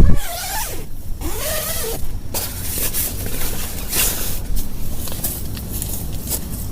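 Heavy rain pattering with a steady low rumble and many fine crackling ticks. Near the start come two short rasping strokes that rise and fall in pitch.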